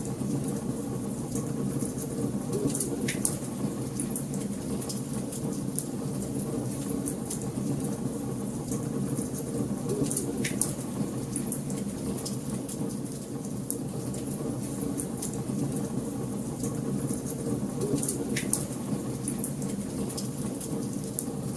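Wood fire burning in a fireplace: a steady low rumble of flames with constant small crackles and a few sharper pops.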